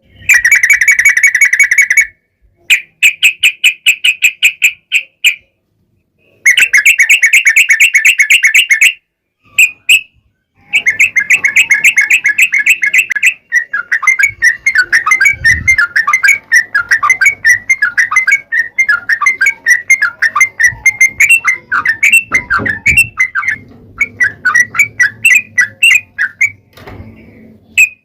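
Yellow-vented bulbul (trucukan) singing its long rapid 'ropel' song, loud: bursts of fast, repeated chattering notes a couple of seconds each with short pauses, then a long unbroken run of quick varied notes through the second half.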